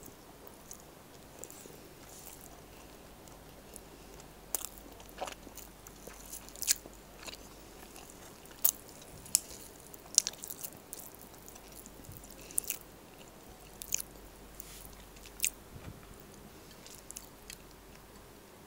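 Close-miked mukbang eating: a person chewing rice and soft food with the mouth, making sharp wet mouth smacks and clicks at irregular intervals, beginning about four seconds in.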